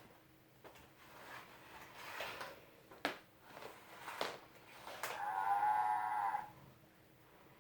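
A few sharp clicks of a children's farm-animal sound toy being handled, then, about five seconds in, the toy plays a recorded cow moo lasting about a second and a half.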